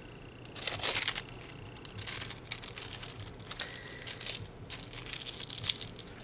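Crinkling and rustling of something being handled, loudest about a second in, followed by a run of small clicks and crackles.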